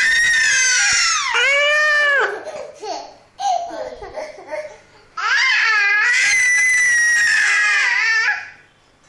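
Infant squealing in play: two long, very high-pitched shrieks, the first falling in pitch at its end, with short, softer baby sounds between them.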